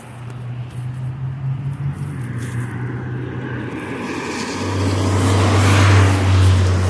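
A road vehicle approaching and passing on a wet road, the hiss of its tyres growing to its loudest about six seconds in, over a steady low engine hum.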